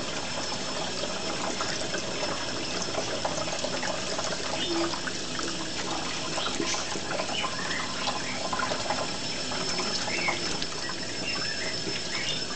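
Tap water running steadily into cupped hands while a green-cheeked conure bathes in the stream. A few short high chirps or squeaks come through in the second half.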